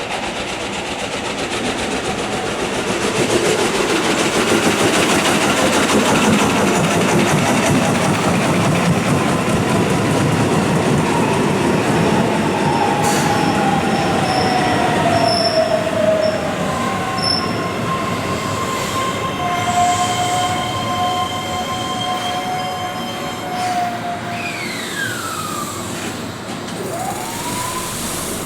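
Keihan electric train running along the curve through an elevated station: the rumble of wheels on rail builds and then slowly fades. From about halfway through, steady high-pitched wheel squeals from the curve join it, and falling whistling tones follow near the end.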